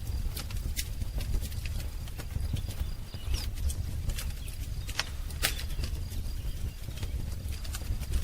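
Wood fire crackling, with irregular sharp pops over a low steady rumble of the flames. Faint birdsong in the background, with a short chirp about three seconds in.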